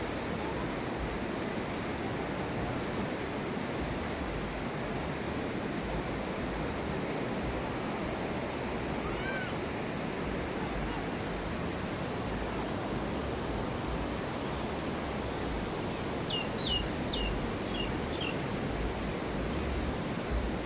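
Ocean surf washing onto a beach, a steady rushing wash of waves, with a quick run of about five short, high, falling chirps a little past the middle.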